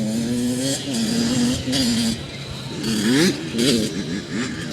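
Small dirt bike engine pulling under throttle. In the second half the revs rise and fall quickly several times as the throttle is blipped.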